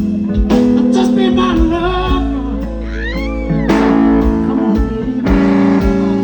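Live blues band playing a slow ballad: electric guitar lead with bent, gliding notes over bass and drums.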